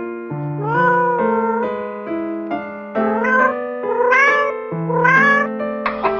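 Domestic cat meowing about four times. The calls are short and rise in pitch, with one longer, flatter call early on. Background piano-like music plays under them.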